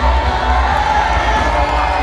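Crowd cheering over loud music with a heavy bass beat.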